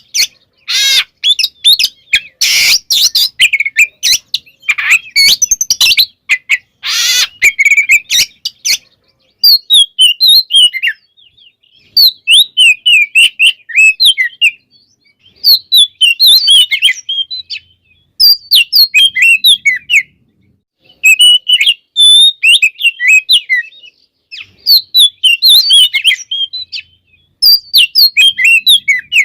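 Oriental magpie-robin (kacer) singing loudly: harsh, scratchy notes for the first several seconds, then bouts of rapid, varied whistled phrases, each a couple of seconds long, with short pauses between them.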